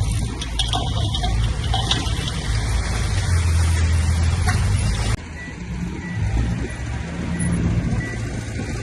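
Diesel engines of heavy earthmoving machinery running steadily with a low drone. The sound changes abruptly about five seconds in and is quieter after that.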